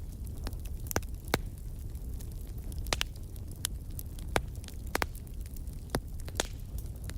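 Wood fire burning in a fireplace: a dozen or so sharp, irregular crackles and pops over a steady low rumble.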